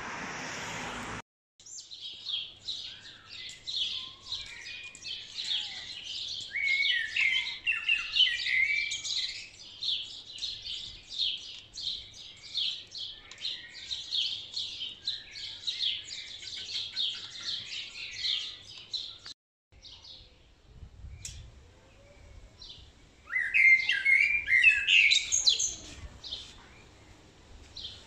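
Wild songbirds chirping and singing in trees: a dense run of rapid high chirps, then, after a cut about nineteen seconds in, scattered calls and a louder burst of song near the end. A steady rushing noise fills the first second before an abrupt cut.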